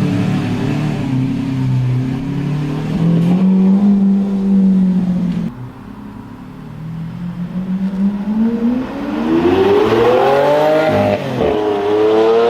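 Stock Lamborghini Aventador V12 through its factory exhaust. A steady engine note for about five seconds cuts off abruptly. Then the engine revs up in a long rising sweep, dips briefly near the end and climbs again.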